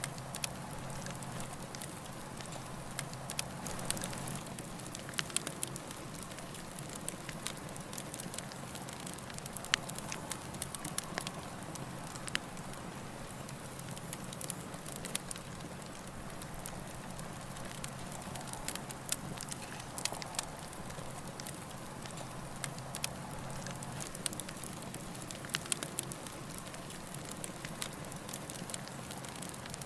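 Campfire burning: wood crackling with irregular sharp pops over a steady hiss.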